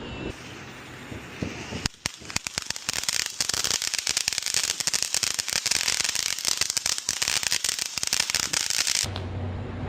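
A firework crackling: many rapid small pops with a bright hiss starting about two seconds in and running for about seven seconds before cutting off suddenly.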